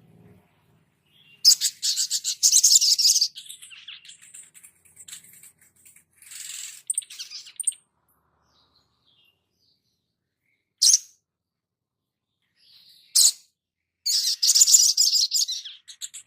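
Small sunbird-family songbirds (sunbird and spiderhunter) giving high, fast chattering twitters in bursts of one to two seconds, with two short sharp single calls between the bursts and silent gaps.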